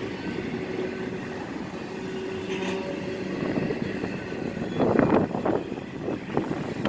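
CSX freight train running past: a steady low rumble with a faint hum. It turns louder and rougher in surges about five seconds in.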